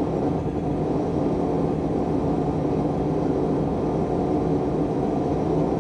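A steady, even low roar with no breaks or sharp sounds.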